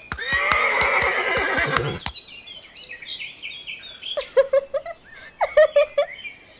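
A horse whinnying for about two seconds, wavering in pitch. Quieter high chirps follow, then two quick runs of sharp clicks with short notes.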